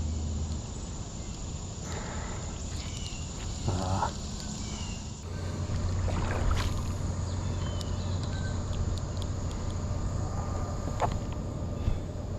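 Steady outdoor noise of a wade-fished creek: running water and wind rumble, heavier from about halfway in, with a few short high chirps over it.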